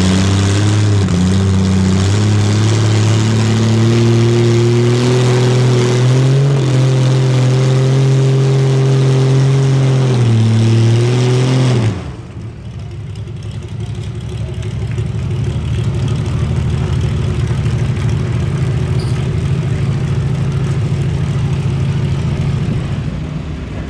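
A competition pulling vehicle's engine running hard at high, nearly steady revs with a few small dips in pitch. About halfway through it cuts off abruptly, and a lower, rougher engine sound carries on.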